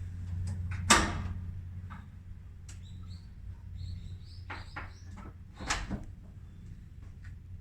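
A loud sharp knock about a second in and a few lighter knocks later, over a steady low hum, with a small bird chirping several times in the middle.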